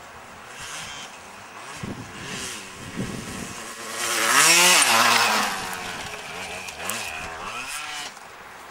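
Yamaha DT 125's single-cylinder two-stroke engine revving as the dirt bike rides in across rough ground, its pitch rising and falling with the throttle. It is loudest as it passes close, about halfway through, then quieter as it rides away.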